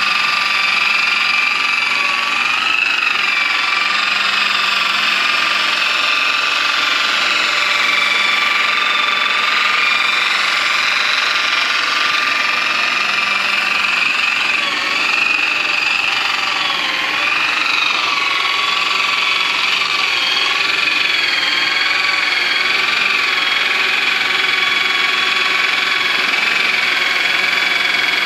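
A motor running continuously with a high whine that wavers and dips in pitch now and then, most noticeably around the middle.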